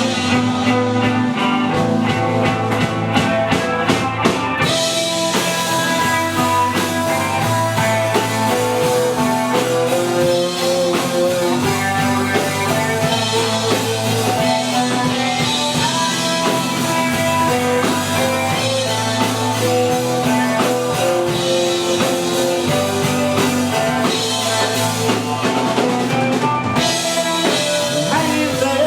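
Live rock band playing an instrumental break of the song: drum kit keeping a steady beat under bass and guitar, with a lead line of long held notes on top.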